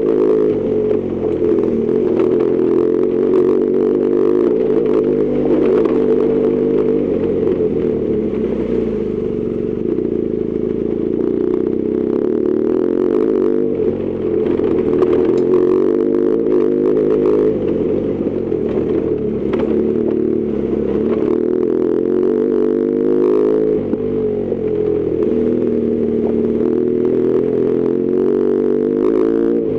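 BMW R1200GS Adventure's boxer twin engine under way, its pitch rising and falling as the throttle is opened and closed, with a few knocks and clatters from the bike over a rough surface.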